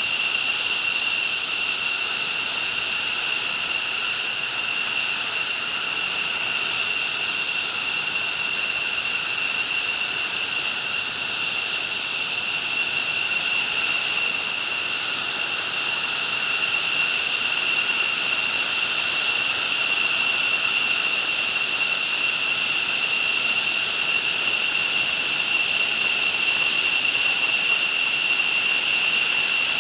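F-15J fighter's twin F100 turbofan engines running steadily on the ground: a constant high-pitched whine made of several steady tones over a rushing hiss, with no change in pitch.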